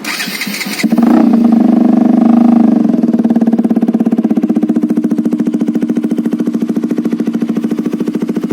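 Bajaj Pulsar RS 200's single-cylinder engine, breathing through an aftermarket SC exhaust, being started: a brief burst of cranking noise, then the engine catches about a second in, runs with a raised idle for two seconds, and settles into a steady, evenly pulsing idle.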